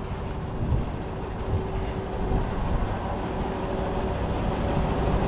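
Semi truck engine idling with a steady hiss of air as the truck's tires inflate. A faint steady tone stops about four seconds in.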